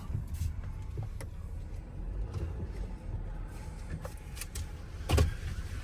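Low, steady rumble of a truck driving, heard from inside the cab, with a few light clicks and a sharper knock about five seconds in.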